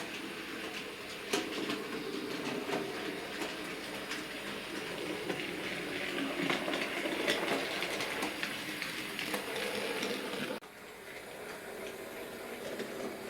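Bachmann Class 03 OO gauge model shunter running on model railway track: the small electric motor whirs steadily, with frequent light clicks from the wheels on the track. The level drops suddenly about ten and a half seconds in, then the running goes on more quietly.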